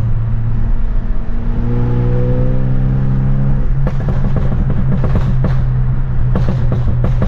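Straight-piped, Stage 2+ tuned BMW F30 328i turbocharged four-cylinder droning loud in the cabin, its pitch climbing slowly under a gentle pull. After that come bursts of crackling exhaust pops from the tune's pops-and-bangs setting, which the driver calls over the top.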